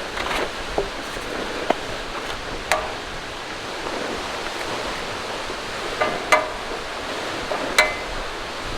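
Several sharp clinks of cooking gear being handled, each ringing briefly, over a steady rushing background noise from the water and open air.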